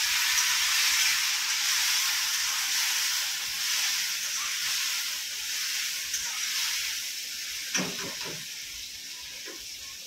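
Tomatoes sizzling in hot oil with cumin in a kadai on a gas stove as they are stirred: a steady frying hiss that slowly dies down.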